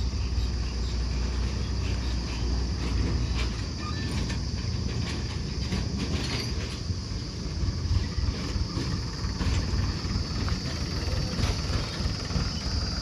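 Steady low rumble of a heavy vehicle running, with scattered clicks and rattles. A constant high chirring of insects sits over it.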